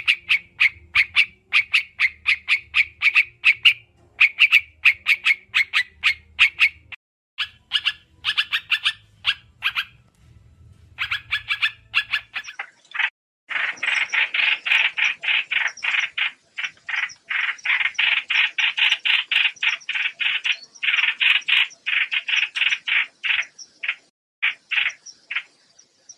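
Lure recording of trao trảo birds calling: quick runs of sharp repeated chirps, a brief pause near the middle, then a denser, louder stretch of rapid chattering chirps that thins out near the end.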